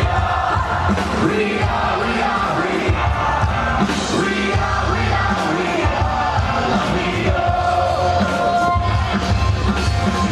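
Live rock band playing loudly with a singer, the bass beat pulsing steadily throughout.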